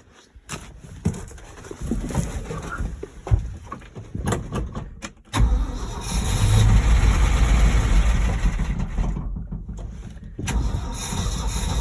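1971 Ford F600 truck engine cranking and firing up: after a few seconds of uneven, scattered sound, a loud low engine sound starts abruptly about five seconds in, drops away briefly near the end, then picks up again.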